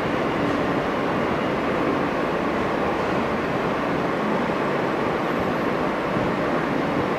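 Steady hum and rushing noise inside an R160 subway car standing at a station stop, with faint steady tones over it and no speech or clatter.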